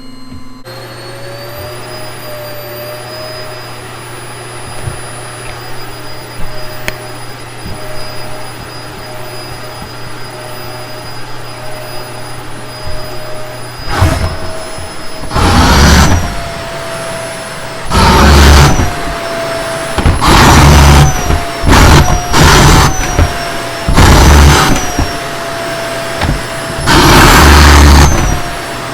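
Vacuum cleaner running with a steady motor whine. About halfway through, loud rushes of air come in repeatedly, a second or two each, with the motor's pitch dipping slightly at each one.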